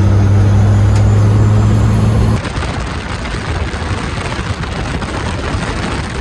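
A vehicle engine running with a steady low drone that cuts off abruptly about two and a half seconds in, giving way to a steady, noisy hiss.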